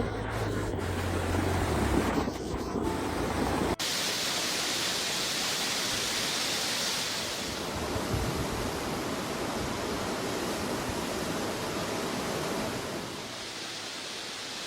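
Steady rushing water noise, an even hiss; for the first few seconds a low rumble runs under it, which stops abruptly at a cut, and the hiss eases slightly near the end.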